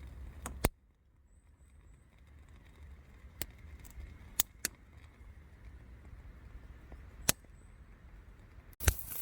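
Sparse sharp pops from a wood fire burning in a Bushbox XL stove, over a low rumble. Near the end comes a knock, then a steady sizzle as the tomahawk ribeye steak goes onto the hot cooking surface.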